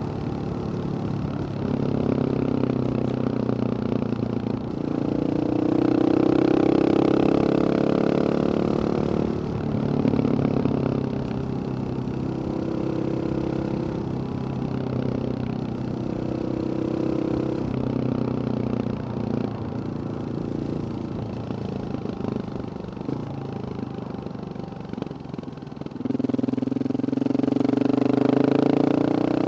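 Husqvarna 701 supermoto's single-cylinder engine through a Wings aftermarket exhaust, pulling hard several times with the pitch climbing and then dropping. It eases off for a few seconds near the end, then climbs again.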